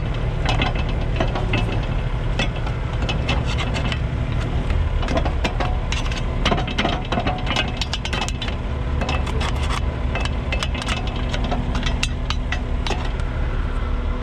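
Repeated knocks, clanks and scrapes of mud being dug out of a wrecker's spades, over the steady low rumble of a running truck engine.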